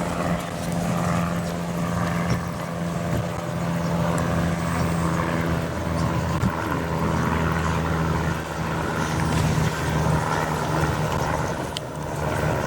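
Motorcycle engine running at a steady pitch, a constant low drone with traffic noise around it.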